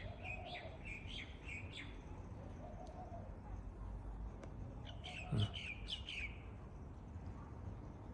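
Small birds chirping faintly, in two bouts of quick short calls: one in the first two seconds and another from about five to six seconds in.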